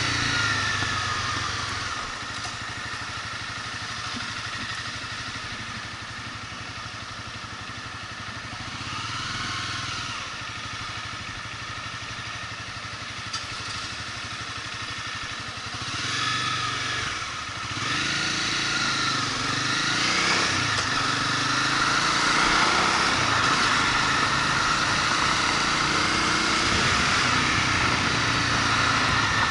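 Motorcycle engine running while riding, quieter for much of the first half, then louder from a little past halfway as the engine pitch rises and falls with throttle and gear changes.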